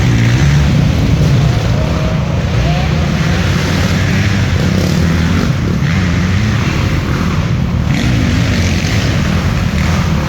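Dirt bike engines running and revving, their pitch rising and falling over a steady low rumble.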